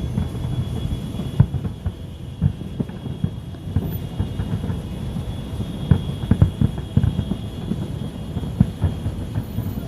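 Fireworks bursting at a distance: an irregular run of low, dull booms and thuds, several a second at the busiest.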